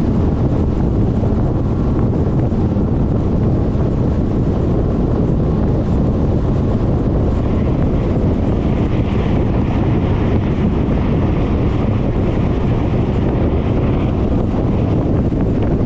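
Steady wind rush buffeting the camera microphone on a moving Suzuki Burgman 400 scooter, mixed with the scooter's road and engine noise. About halfway through a higher hiss joins in for several seconds.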